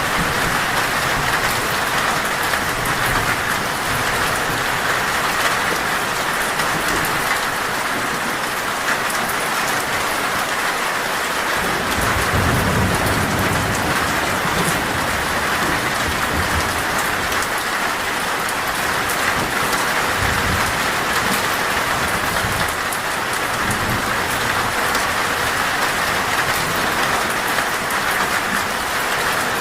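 Heavy rain falling steadily on a metal roof, with a low roll of thunder about twelve seconds in.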